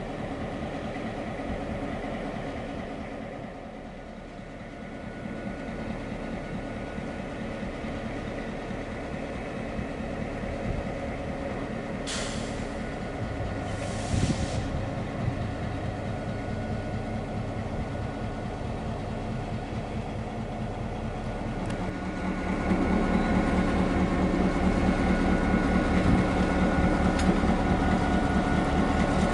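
EMD GP9 diesel-electric locomotive running during switching moves, its engine drone steady. Two short hisses of air come about halfway through, and near the end the engine grows louder.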